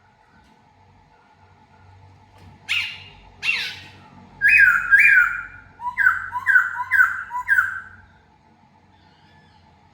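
Laughingthrush giving a run of about eight loud, harsh calls, each falling sharply in pitch. The calls come from about three seconds in to about eight seconds in, with the last four coming quickly one after another.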